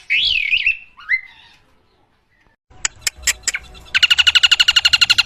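Javan pied starling singing a short phrase of loud whistled, gliding notes, followed by a few sharp clicks. About four seconds in, a loud, rapid, evenly pulsing sound with several steady tones starts and keeps going.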